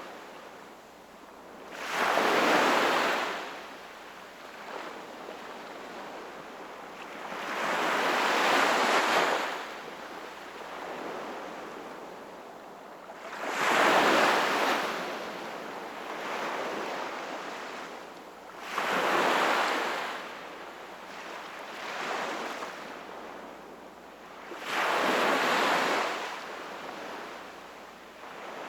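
Sea waves breaking and washing in. Five large surges come about every five to six seconds, with softer wash between them.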